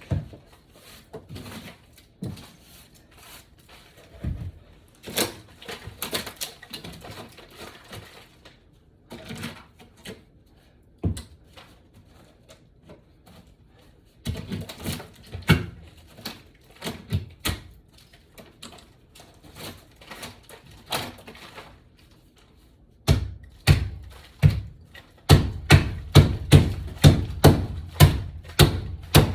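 Scattered knocks and scrapes of floor demolition with a hammer and pry bar on wooden boards, ending in a run of rapid hammer blows, about three a second.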